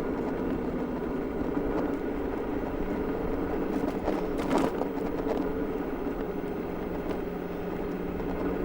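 Super Soco TC Wanderer electric motorcycle riding along at low speed: a steady low motor hum under road and wind noise, with a brief louder moment about halfway through.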